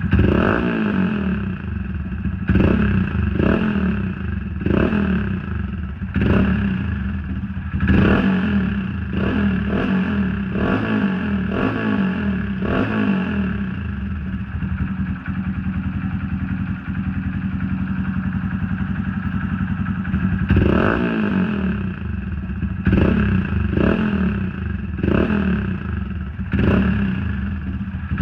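Honda Monkey 125's single-cylinder engine running through a Black Widow aftermarket exhaust with the baffle removed, revved in short blips about once a second, settling to a steady idle about halfway through, then blipped again near the end.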